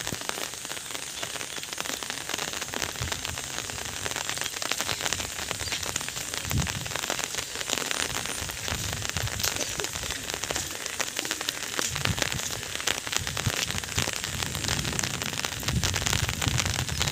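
Steady rain falling, a dense hiss of many small drop ticks, with a few low thumps now and then.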